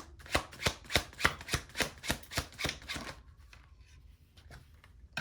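A tarot deck being shuffled by hand: about ten quick, evenly spaced slaps of cards, then it goes quiet about three seconds in.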